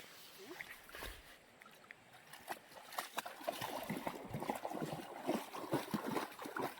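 Water splashing and gurgling in a shallow stream. Many small, irregular splashes pick up about halfway in.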